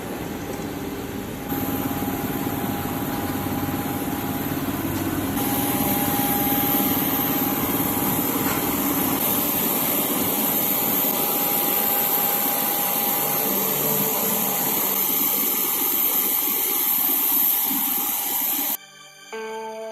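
Aircraft engines heard from inside the cabin: a steady rushing noise with a high whine, growing louder about one and a half seconds in and again around five seconds, then cutting off abruptly near the end.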